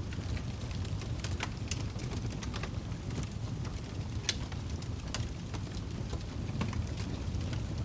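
Wood fire crackling in a fireplace: a steady low rumble of burning with scattered sharp pops and snaps, one louder snap a little past the middle.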